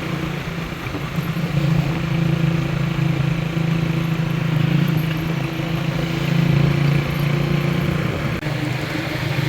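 A motor vehicle's engine running steadily with an even hum.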